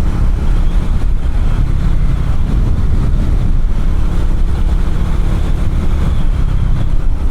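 Triumph Scrambler motorcycle running on the move, its engine note under heavy wind buffeting on the rider's microphone.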